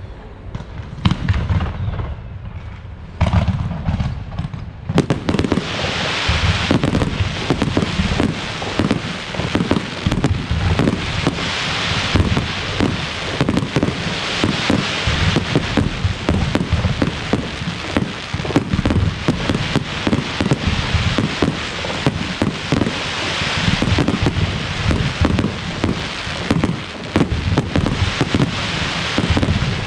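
Fireworks display going off: a few separate bangs in the first seconds, then from about five seconds in a dense, continuous run of rapid, overlapping bangs and crackling.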